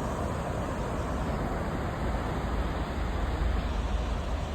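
Steady low rumble under an even hiss, swelling slightly about two seconds in.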